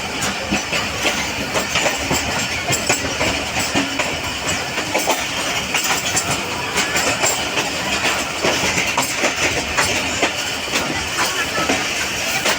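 Passenger train rolling along the track, its wheels clattering irregularly over rail joints with a steady rumble underneath.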